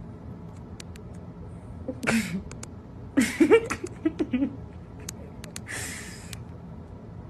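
A pet's brief vocal sounds over a steady low hum: a short falling cry about two seconds in, a few wavering calls a second later, and a breathy hiss near the end.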